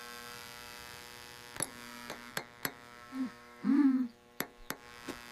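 A steady electric-sounding buzz that holds one pitch, with several sharp clicks over it. A short wavering squeak-like sound comes just past the middle.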